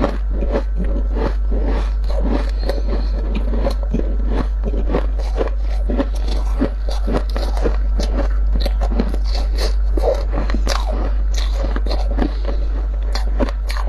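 Dry, squeaky deep-freezer frost being scraped and crunched: a dense run of quick, irregular crunches, several a second, over a steady low hum.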